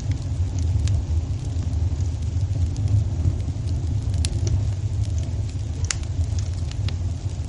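Wood fire burning in a fireplace: a steady low rumble with scattered sharp crackles and pops, the clearest about four and six seconds in.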